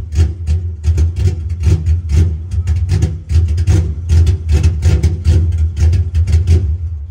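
Ford Mustang's 5.0 V8, fitted with full bolt-ons, running while parked, with a deep pulsing exhaust note.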